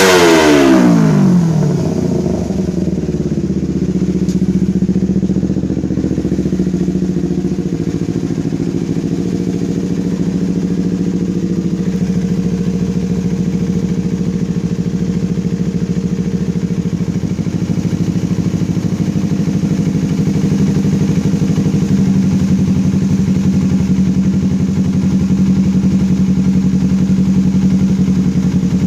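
Engine exhaust: a rev dies back down in the first second or two, then the engine idles steadily.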